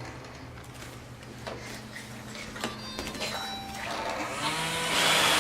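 Roomba robot vacuum running: a steady motor hum with scattered light clicks and knocks, then its vacuum noise rises and grows loud near the end.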